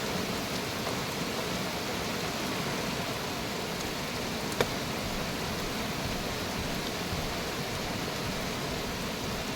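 Steady rain falling, an even hiss throughout, with a single sharp click about four and a half seconds in.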